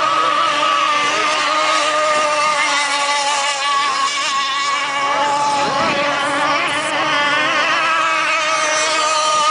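Several gas-powered RC rigger boats racing, their small two-stroke engines holding a steady high-pitched buzz, with a few engine pitches overlapping and wavering slightly.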